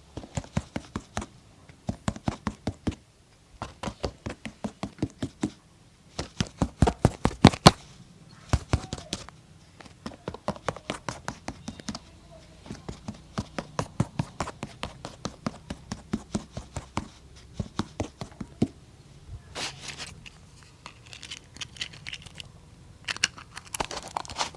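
Quick rhythmic strokes worked on a leather boot during shoe-shine work, about six to eight sharp strokes a second, in bursts of a second or two with short pauses between.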